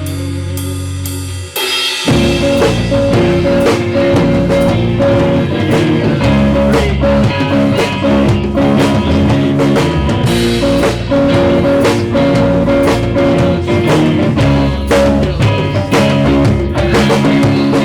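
A rock band playing a song, roughly recorded, with drum kit and guitar. A held chord rings for about two seconds, then the drums and the rest of the band come in together and carry on with a steady beat.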